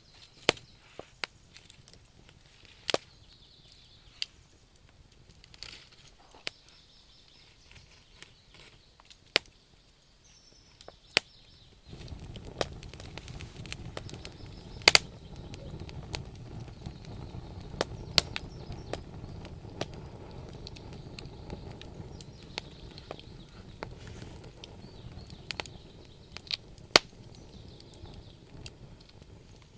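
Wood fire crackling, with many sharp, irregular pops and snaps from the burning logs. About twelve seconds in, a steady low rumble sets in abruptly under the crackling.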